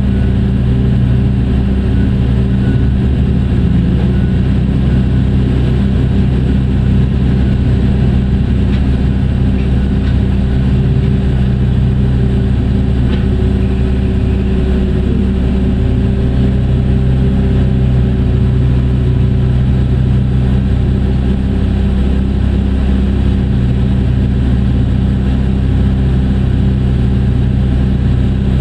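Hitachi EX2600 mining excavator's large diesel engine running steadily under work, a deep even drone with little change in level.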